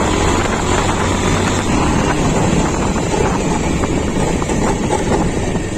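Diesel engine of a JCB 3DX backhoe loader running steadily while it works, with wind buffeting the microphone.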